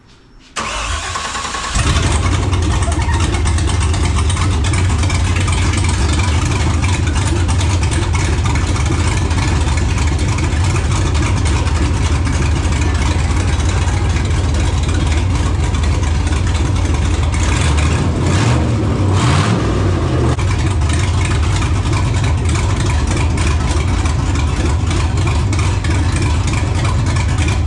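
5.3 L LS V8 in a '68 Suburban running open header, with no exhaust pipes or mufflers on the headers: it cranks and fires about two seconds in, then idles loud and raw. The pitch rises and falls briefly around two-thirds of the way through, and the engine is shut off at the end.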